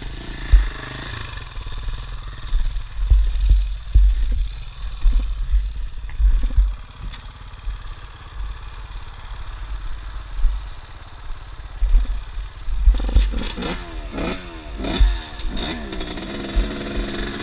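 Off-road motorcycle engine, with uneven low rumbling and thumps for the first part, then several quick revs rising and falling about two thirds of the way in, settling into a steady running note near the end.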